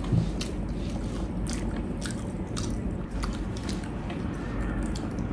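Close-miked eating sounds: chewing and biting of fried chicken with creamy mushroom sauce, with many short, sharp crunches and wet mouth clicks scattered throughout over a steady low hum.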